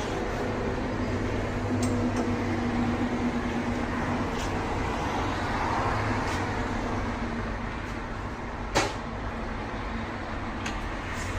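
Steady mechanical hum with several sharp clicks, the loudest about nine seconds in.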